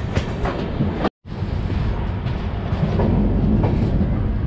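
Moving LHB passenger train's wheels running on the track: a steady low rumble with a few sharp clicks, dropping out briefly about a second in.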